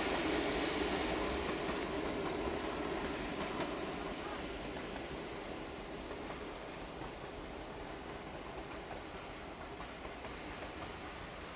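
Passenger train running on the rails and moving away, its rumble fading gradually. A steady high insect trill with even pulses runs underneath.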